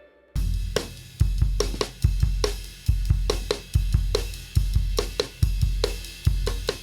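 Background music: a drum kit playing a steady rock beat, with a kick drum about every second and snare and cymbal hits in between, starting after a moment of silence.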